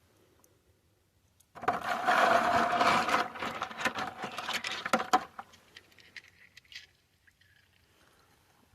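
Water splashing and sloshing in a bucket of rainwater as a rock is rinsed, starting about a second and a half in and lasting about four seconds, with small clicks through it, then a few scattered drips and clicks.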